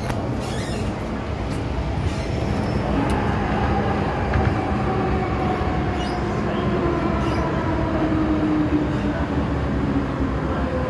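MTR M-Train metro car running on the track with a steady rumble, its traction motors whining in a tone that falls slowly as the train slows.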